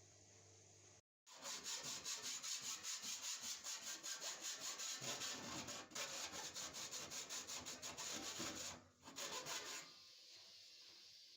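Rapid back-and-forth scraping strokes of a hand tool, like filing or sawing, about four a second, with two short breaks. The tool is most likely cutting a notch in the Samsung washing machine's cabinet where the motor shaft strikes it at the end of the spin.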